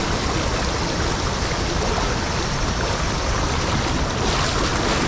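Swollen, muddy mountain stream rushing in a steady torrent, the sound of a sudden rise in water level.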